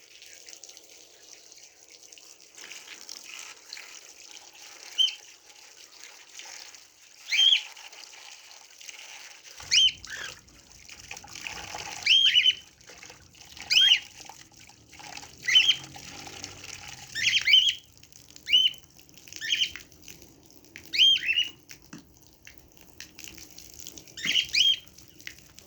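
A bird calling over and over with short, sharp, arched chirps, one every second or two, over a steady hiss of running or sprayed water.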